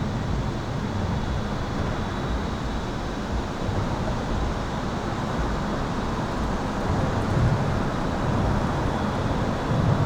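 Highway traffic passing over an overpass, heard from beneath it as a steady low rumble that swells as heavier vehicles go by, with a faint steady high-pitched electrical hum.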